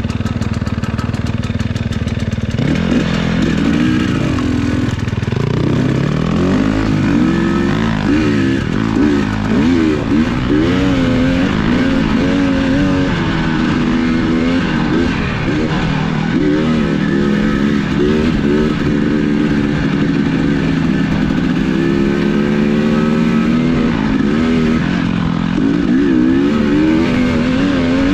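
A vehicle's engine idling steadily, then pulling away about two seconds in and revving up and down again and again as it drives on.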